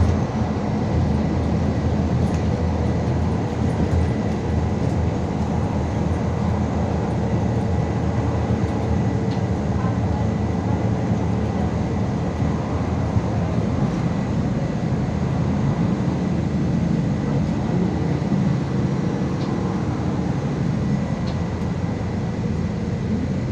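MAZ 216.066 articulated city bus driving, heard from inside the passenger cabin: steady engine and road noise with a faint, constant high tone.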